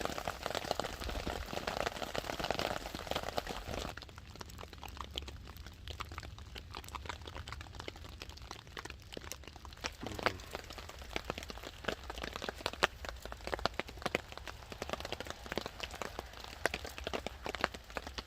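Rain falling and dripping in woodland, with many scattered sharp cracks and clicks. About four seconds in, the sound changes abruptly and becomes quieter, leaving mostly the separate ticks and cracks.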